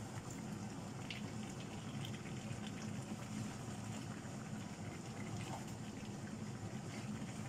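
Chicken pieces sizzling and bubbling in a non-stick wok as they are stirred with a wooden spatula, with faint scrapes and knocks of the spatula now and then.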